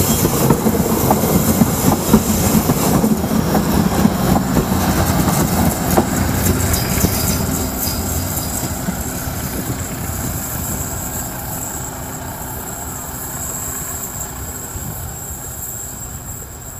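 Passenger train running by on the rails, its noise fading steadily as it moves away.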